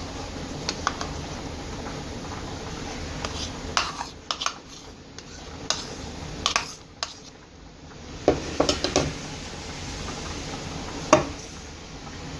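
Kitchen utensils clinking and knocking against dishes in scattered, irregular strikes, some in quick clusters, over a steady background hiss.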